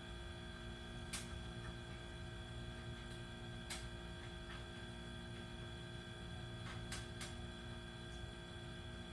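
Steady electrical hum with a few sharp clicks or taps scattered through it, a pair of them close together about seven seconds in.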